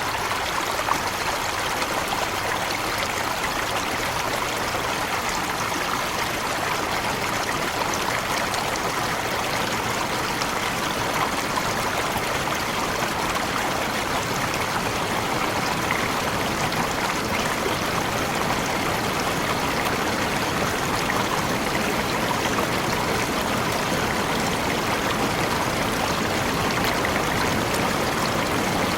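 Tropical forest waterfall, its water falling and running in a steady rush.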